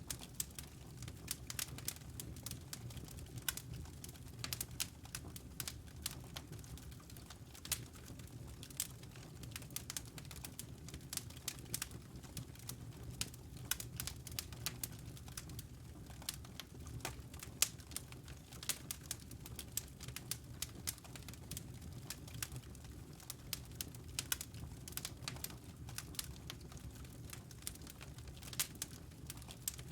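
Wood fire crackling in a fireplace: a steady low rumble of flames with irregular sharp pops and snaps throughout.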